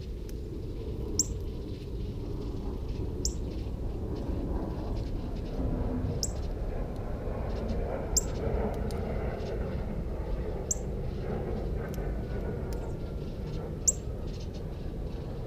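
A small songbird giving sharp, high, downslurred chip notes, single and spaced every two to three seconds, about six in all, over a steady low background rumble.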